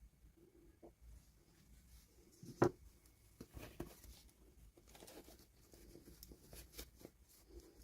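Soft taps, clicks and rustling from small plastic toy pieces and packaging being handled, with one sharper click about two and a half seconds in.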